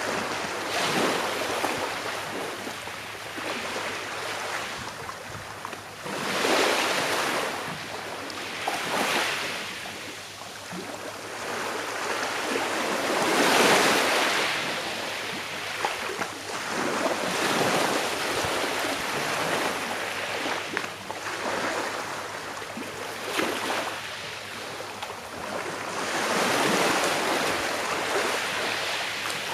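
Sea waves washing onto a shore, swelling and ebbing in a rolling surge every few seconds, the largest about halfway through.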